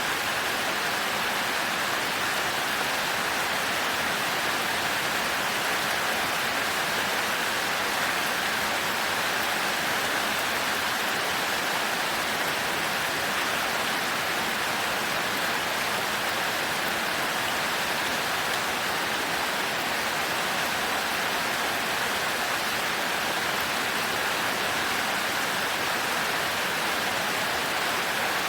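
Heavy, steady rain hissing without a break, with no thunder.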